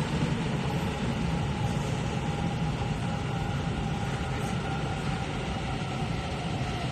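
Electric train running through a railway station: a steady rumble with a faint, even whine above it.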